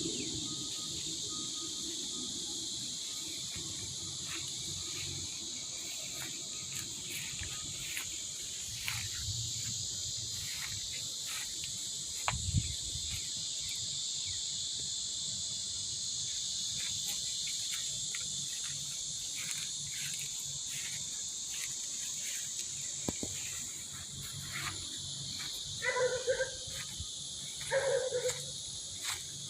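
Steady high-pitched chirring of crickets or similar insects, with scattered small clicks and a single low thud about twelve seconds in. Two short animal calls come near the end, one about two seconds after the other.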